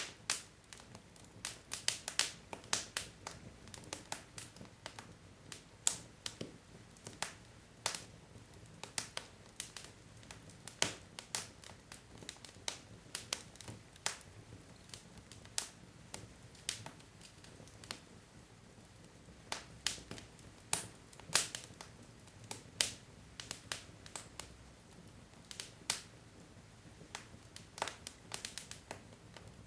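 Wood fire burning in a fireplace, logs crackling and popping in irregular sharp snaps over a faint low hiss of the flames.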